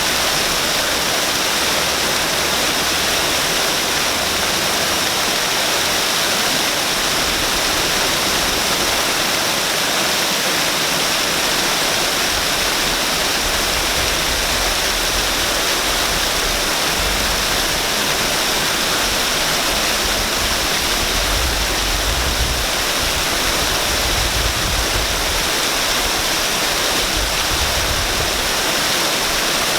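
Waterfall: water falling steadily and splashing, a dense, even rush with a faint low rumble now and then.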